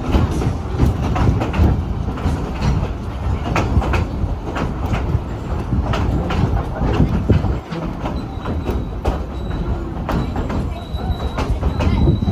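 Narrow-gauge Tweetsie Railroad train rolling, heard from aboard: a steady low rumble with irregular clacks and knocks from the wheels on the track. About two-thirds of the way through, a thin, high, steady wheel squeal comes in.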